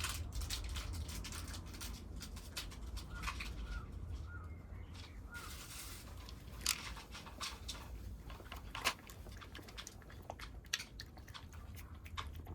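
Kittens eating cat food: irregular sharp chewing and crunching clicks.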